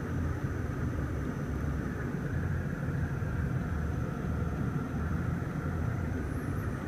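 Steady low rumble of a BMW's engine idling, heard inside the cabin.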